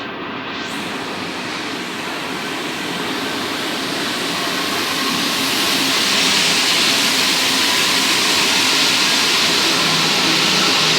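Rubber-tyred metro train running at the platform, its sound growing louder over about six seconds and then holding steady and loud, a wide hiss with a faint steady hum.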